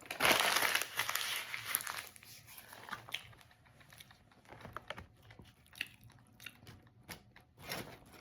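Close-miked eating of an Italian beef sandwich and fries: a loud crunching bite in the first two seconds, then steady chewing with many small wet mouth clicks.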